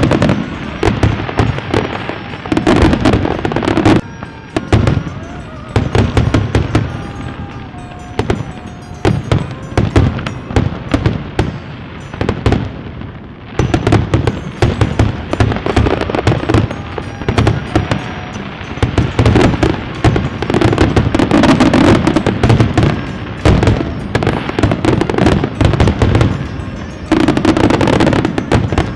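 Fireworks going off in rapid, irregular succession: a dense run of bangs and crackles, heaviest in the last third. Music plays underneath.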